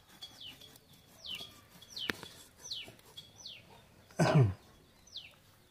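A bird calling over and over, a short high chirp that falls in pitch each time, in the manner of a chick peeping. A single sharp click comes about two seconds in, and a brief, loud, low sound about four seconds in.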